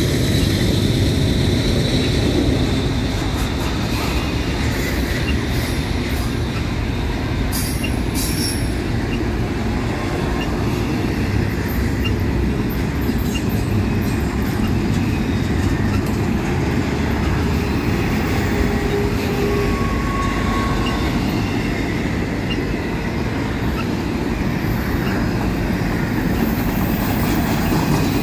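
Double-stack container well cars of a freight train rolling past: a steady, loud rumble of steel wheels on rail. A few clicks come about eight seconds in, and faint, brief wheel squeals are heard now and then.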